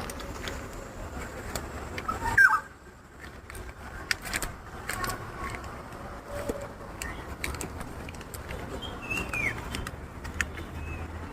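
Scattered bird calls over a steady low rumble, with one loud call about two seconds in and a short falling call near the end.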